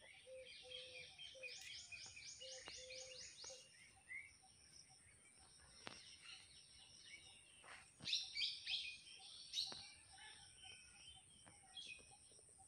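Faint wild birds chirping and singing, with a quick run of repeated high notes about two seconds in and another burst of song about eight seconds in. A lower, repeated call sounds under the chirps in the first few seconds.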